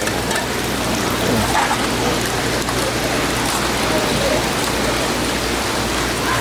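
Steady rush of running, splashing water from live-seafood tanks, over a low steady pump hum, with faint voices underneath.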